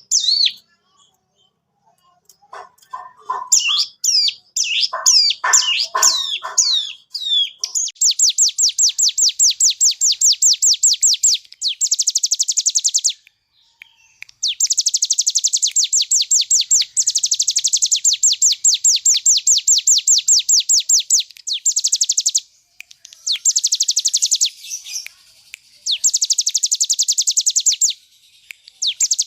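Ciblek gunung (hill prinia) singing loudly. A few varied chirps and whistles come first; then, from about eight seconds in, it breaks into long, fast rattling trills of about ten high notes a second, repeated in bouts with short breaks. This is the continuous 'ngebren' song of a bird in full voice.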